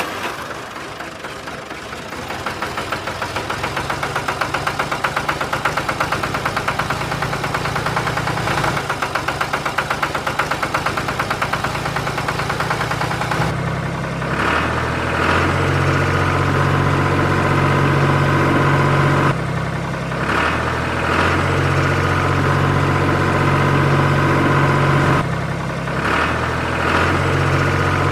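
Small motor of a home-built mini tractor running steadily with a fast, even pulsing, growing louder over the first few seconds. A low hum underneath changes in pitch a few times.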